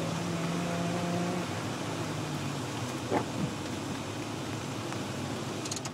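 Mazda Miata engine idling steadily, heard from inside the cabin over an even hiss of rain on the car. A brief squeak about halfway through.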